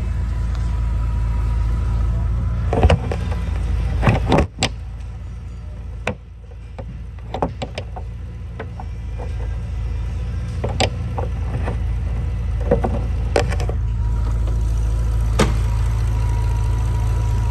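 Bentley Continental Supersports' 6.0 L twin-turbo W12 idling as a steady low rumble, with a series of sharp clicks and knocks as the bonnet is released and lifted.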